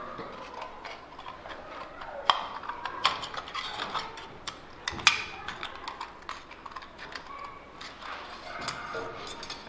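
Metal sheet from an empty soda can being cut by hand: scattered sharp snips and clicks, with louder ones about two, three and five seconds in.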